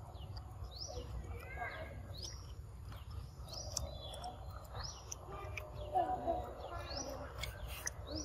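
A bird repeating a short, high call about six times, every one to two seconds, over a steady low outdoor rumble.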